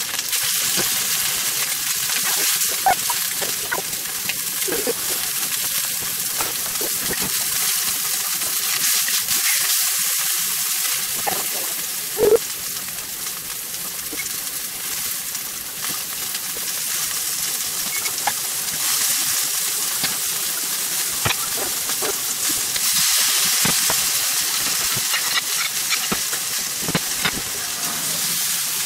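Tuna steak searing in a hot stainless steel skillet: a steady, loud sizzle, broken by a few light clicks and one sharp knock about twelve seconds in.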